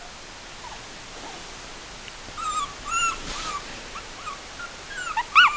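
Four-week-old Chinese Crested puppies whimpering: short, high-pitched, arching squeals. A few come a couple of seconds in, and louder ones start near the end.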